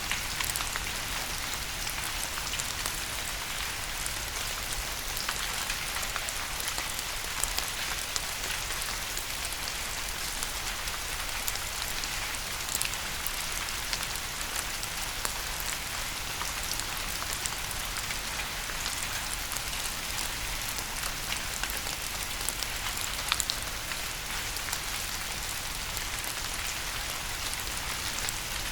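Steady rain: a constant hiss of rainfall with many sharp individual drops ticking and spattering on a surface.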